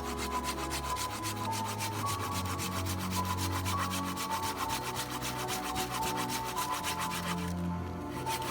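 Rapid, evenly repeated strokes of a tool scraping or rasping on wood, with music underneath.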